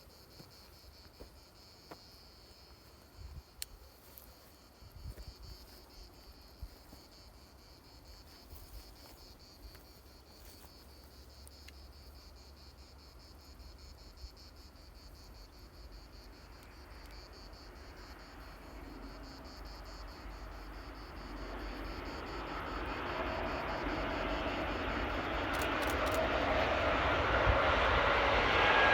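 Faint steady insect chirring, then the noise of an approaching engine that grows steadily louder over the last ten seconds or so and drowns it out.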